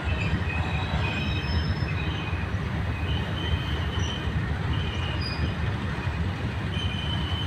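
Distant train running on electrified track: a steady low rumble, with short high-pitched wheel squeals again and again throughout.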